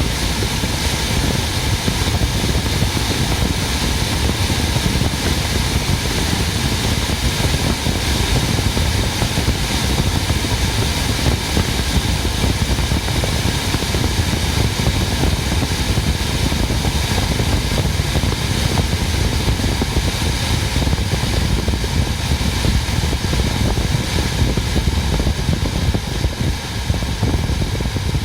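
Ford Focus 2 climate-control fan running steadily with a loud rush of air and a low hum underneath.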